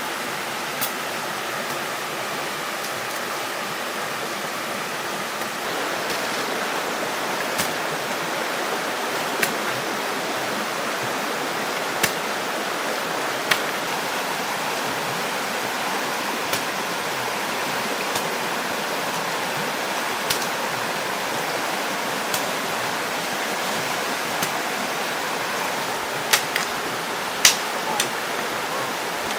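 Steady rushing of water with a dozen or so sharp clicks scattered irregularly through it, two of the loudest near the end.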